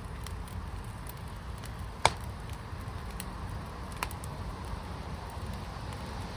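A fire crackling over a low steady rumble, with one loud sharp pop about two seconds in and a smaller pop about two seconds later.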